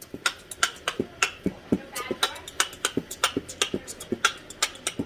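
A fast, even rhythm of sharp clicks and beats, about four a second.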